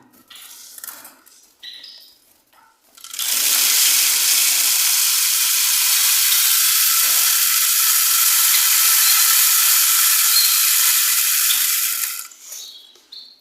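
Birdseed poured steadily into a bird's food dish: an even, loud rushing hiss of small seeds that starts about three seconds in and stops shortly before the end, after a few light handling clicks.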